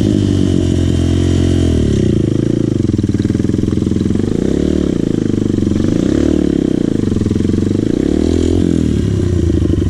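Dirt bike engine running, its throttle opened and closed so that the pitch rises and falls several times.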